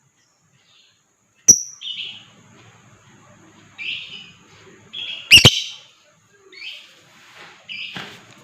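Lovebird giving a run of short, harsh chirping calls, about five of them spaced a second or so apart. Two sharp, loud clicks come about a second and a half in and again past the middle.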